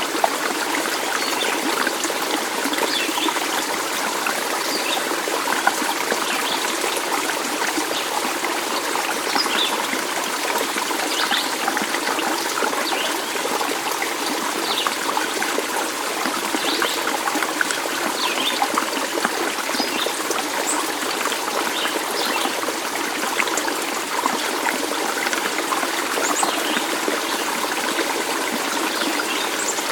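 A small stream running and trickling steadily, with brief high splashes scattered through it.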